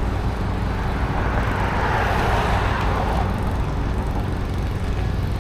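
City street traffic heard from a moving bicycle: a motor vehicle passes, loudest about two to three seconds in, over a steady low rumble of road and wind noise.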